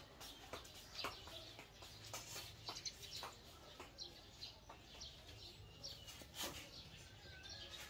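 Faint, scattered bird chirps with light clicks and rustling throughout.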